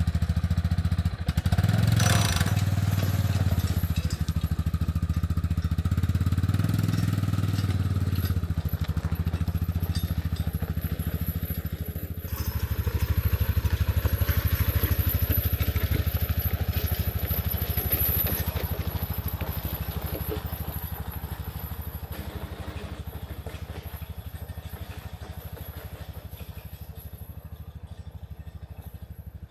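An engine running steadily, with a sudden change in sound about twelve seconds in, then growing gradually fainter toward the end.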